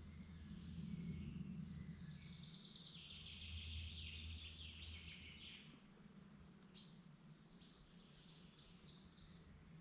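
Songbirds singing faintly: a phrase of quick repeated high notes a couple of seconds in, a short sharp call a little later, and another run of about five notes near the end, over a faint low hum.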